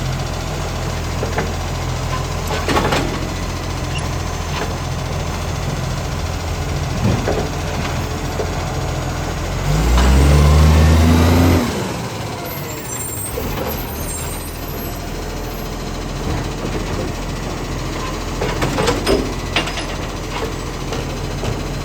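Acco side-loader garbage truck's diesel engine running at a steady idle, with scattered knocks and clatters; about ten seconds in it revs up loudly for two seconds and drops back sharply, followed by a short hiss of air. The truck has an exhaust leak.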